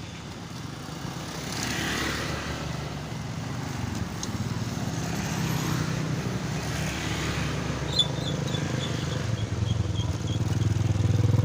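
Low engine rumble of a passing vehicle, building steadily louder, with a short run of faint high ticks about eight seconds in.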